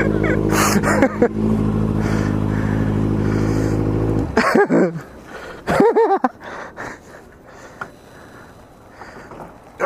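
Sport motorcycle engine idling steadily, then switched off about four seconds in, cutting out abruptly.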